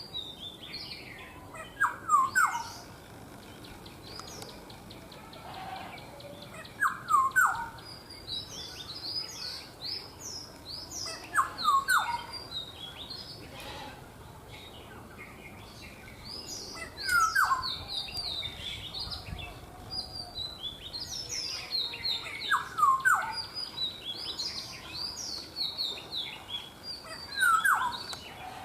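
Birds calling. One bird gives a loud short call of quick falling notes about every five seconds, six times in all, over steady higher chirping and twittering from other birds.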